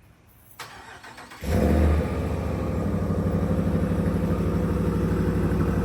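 Ram pickup truck engine started: the starter cranks briefly, the engine catches about a second and a half in with a short flare of revs, then settles into a steady idle.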